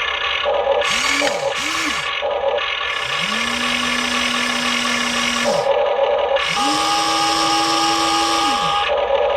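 Huina 1593 RC excavator's small electric motors whining as they drive its movements: two short runs, then two longer ones, each rising in pitch, holding and falling away. A steady hum from the model runs underneath.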